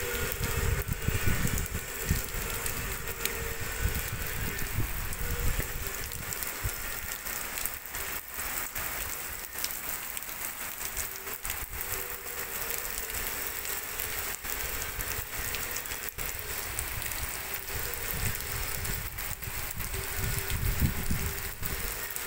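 Heavy rain pouring onto a street and parked vehicles: a steady hiss of rainfall with many close individual drops pattering. Bouts of low rumble come in the first few seconds and again near the end.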